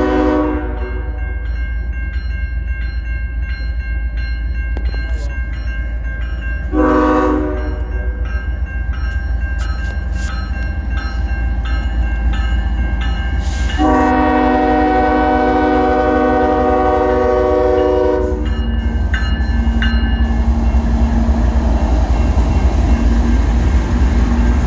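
Norfolk Southern diesel locomotive's air horn sounding a chord in three blasts: one ending just after the start, a short one about seven seconds in, and a long one from about fourteen to eighteen seconds in. Under it the coal train runs with a steady low rumble that grows a little louder toward the end.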